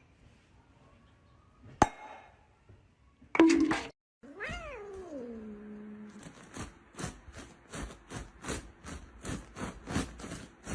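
A domestic cat gives one long, drawn-out meow about four seconds in, rising and then sliding down in pitch. A sharp click comes before it, and a quick run of short, evenly spaced sounds, about three a second, follows it.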